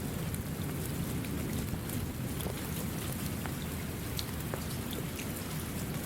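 Steady rain falling, a continuous low wash with scattered individual drops ticking over it.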